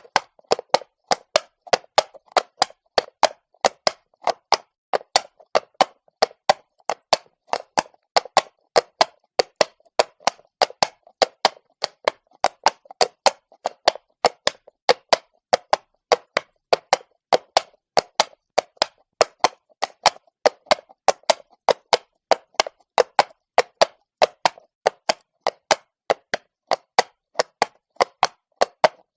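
A horse's shod hooves walking at an even pace on cobblestones: a steady run of sharp clops, about three a second, in the four-beat pattern of a walk.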